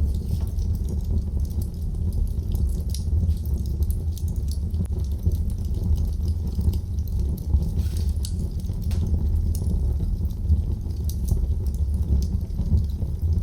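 Wood fire crackling in a fireplace: scattered sharp pops and snaps over a steady low rumble of the burning fire.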